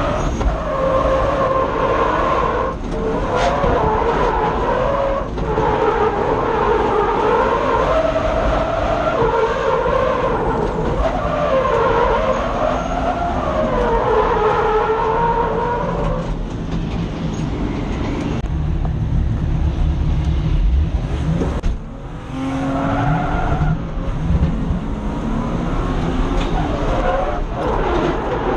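BMW M50B25 2.5-litre straight-six engine, heard from inside the car during a drift run, revving hard with the pitch swinging up and down again and again, with tyre skid noise underneath. About two-thirds of the way through the revs settle lower and steadier, dip briefly, then climb and swing again near the end.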